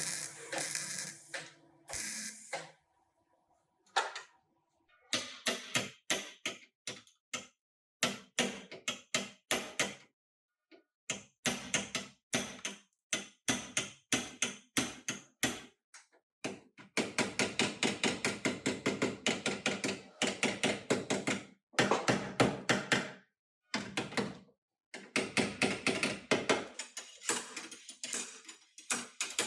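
Quick runs of sharp tool knocks on metal, several a second, like hand hammering or tapping on bodywork, broken by sudden dead gaps.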